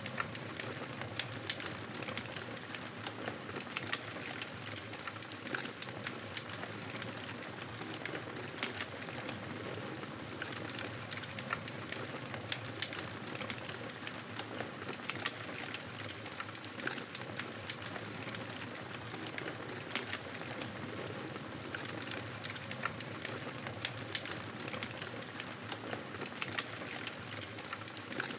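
Wood fire crackling, with many small irregular pops and snaps over a steady soft hiss.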